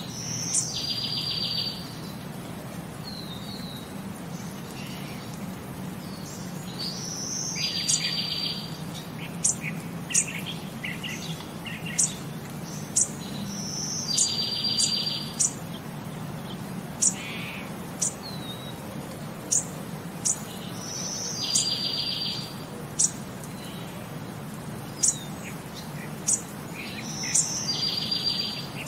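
Bird chirps: a short high note followed by a buzzing trill of about a second, repeating about every seven seconds, with sharp high chirps scattered between, over a steady low hum.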